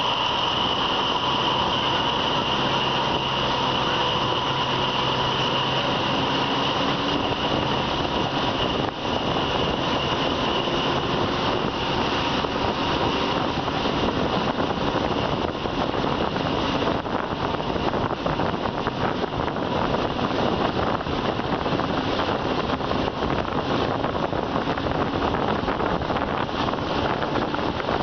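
A train running on the track: a steady, loud rumble and rush with a high ringing tone over it that fades about two-thirds of the way through.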